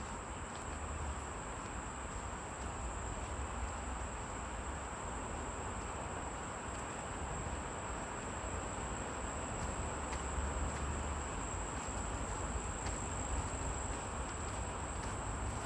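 Insects singing in one continuous, steady high-pitched drone, over a steady rushing background and a low rumble.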